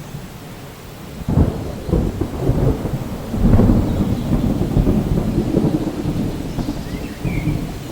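Thunder rolling over steady rain: a low rumble breaks in suddenly about a second in, swells a little later and rumbles on. A few faint bird chirps come near the end.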